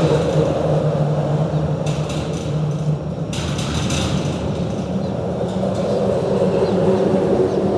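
A motor running with a steady low hum, with a few brief clatters about two to three seconds in.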